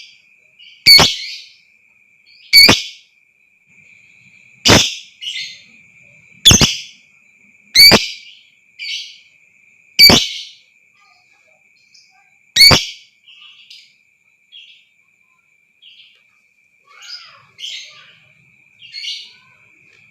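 Lovebird giving loud, shrill single calls, one every second and a half to two seconds, then softer chirps over the last several seconds, with a steady thin high tone underneath.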